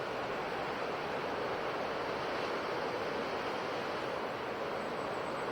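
Ocean surf washing onto a shore in a steady, even rush with no distinct wave breaks.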